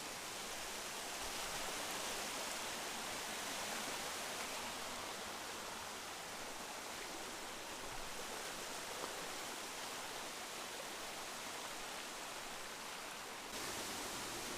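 Steady rush of flowing water from a mountain river, an even hiss with no distinct events. It becomes abruptly a little louder about a second before the end.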